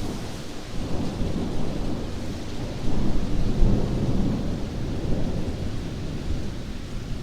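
Heavy rain with low rolling thunder, the rumble swelling louder about three seconds in.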